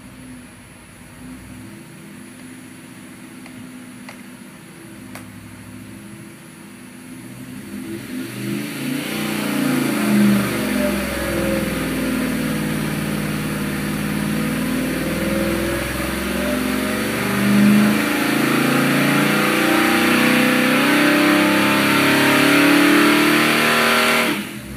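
Oldsmobile 455 big-block V8 with FAST fuel injection running on an engine dyno. It runs lightly at about 1,600 rpm, then about 8 seconds in the throttle opens and it pulls under load, getting louder and climbing steadily to about 4,600 rpm. The throttle is chopped just before the end.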